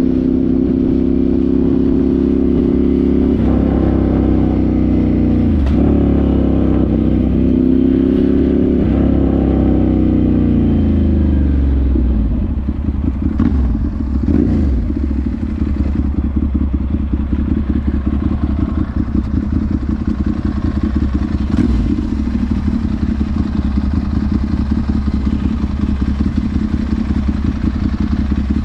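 Ducati Monster 796's air-cooled L-twin through twin Akrapovic silencers, pulling under load with a few brief dips in pitch, then winding down with a falling note about ten seconds in. For the rest it settles into an uneven, pulsing idle, with one short blip of the throttle.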